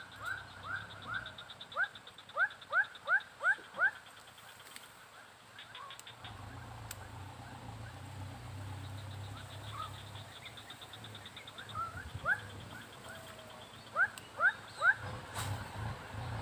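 A bird calling in bursts of short, rising notes, about three a second, once near the start and again near the end. A low engine hum from a passing vehicle runs underneath from about six seconds in.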